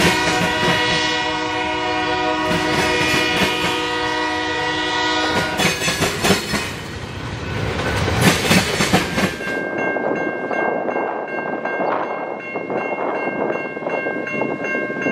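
Freight train passing close by, its cars rumbling and clacking over the rail joints, with a train horn sounding for the first five seconds or so. After a cut about nine and a half seconds in, the low rumble drops away, leaving wind noise and a steady high ringing tone.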